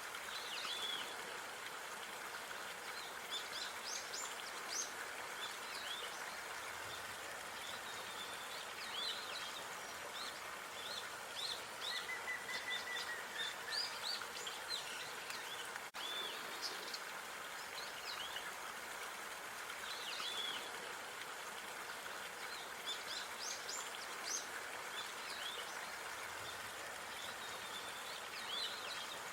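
Park ambience: small birds chirping and calling over a steady background hiss, with a momentary break about halfway through.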